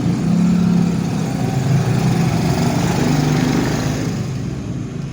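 A motor running steadily under an even hiss, easing off near the end.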